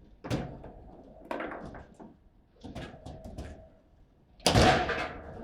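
Table football play: the ball knocked about by the rod figures and off the table walls in separate sharp knocks, then one much louder hard slam about four and a half seconds in.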